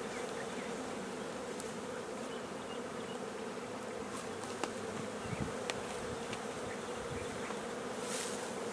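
Honeybee swarm buzzing in a steady, even hum around a hive box, with a few faint ticks.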